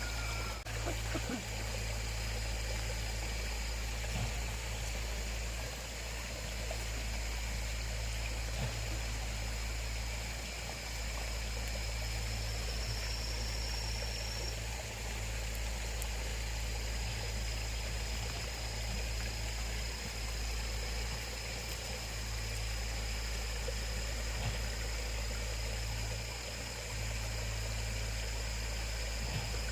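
Running water trickling steadily, without a break.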